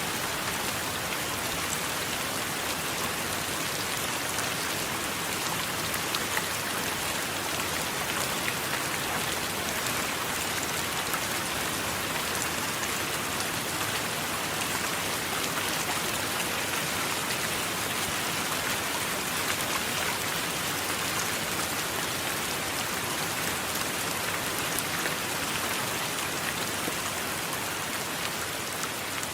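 Steady heavy rain: a dense, even hiss flecked with fine patter of drops, with no thunder.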